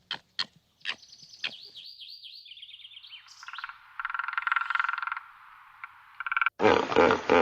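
Frog calling: a few sharp clicks, then a run of quick falling chirps and a fast pulsed trill. About six and a half seconds in, it is cut off abruptly by a much louder, rough, pulsed animal sound.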